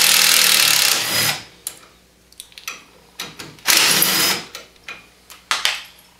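Power driver spinning out the T30 Torx screws that hold the brake hose clamps. It runs steadily and stops about a second in, then makes a second short run near the middle, with clicks and light knocks of the tool and parts between.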